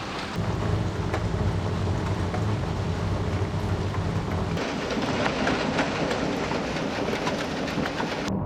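Steady rain falling, with a dense patter of small drop ticks. A low rumble runs under it for the first half.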